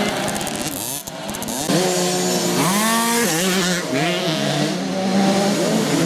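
Motocross motorcycle engines revving, their pitch climbing and dropping as the riders work the throttle. There is a brief lull about a second in, then engines rise sharply again.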